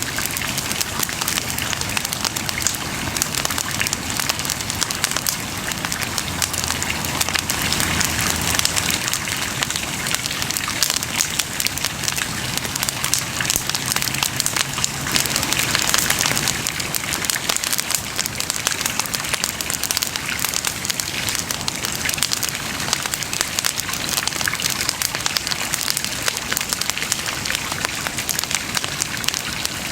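Wood bonfire crackling and popping steadily, a dense run of small, sharp snaps over a soft hiss of burning.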